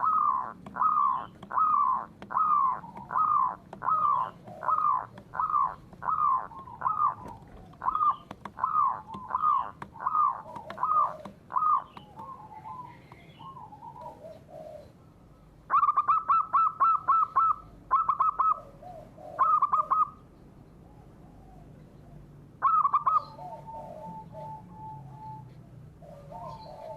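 Bird calls: a long run of repeated downslurred notes, about two a second, over roughly the first twelve seconds. After a softer spell come bursts of rapid, harsher notes, two of them a few seconds apart.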